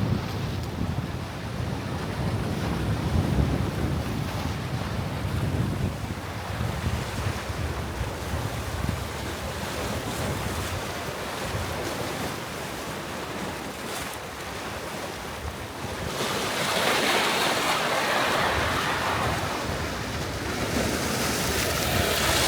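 Sea surf washing onto the beach, with wind buffeting the microphone as a low rumble. About two-thirds of the way in the wash grows louder and brighter.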